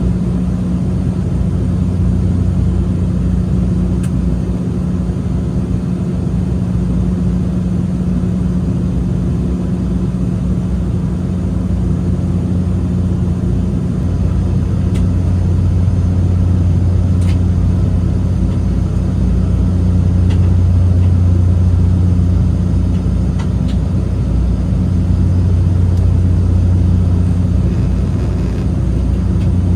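Airliner cabin noise: the steady drone of the aircraft's engines and airflow, with a deep hum and a slight swell in loudness about halfway through.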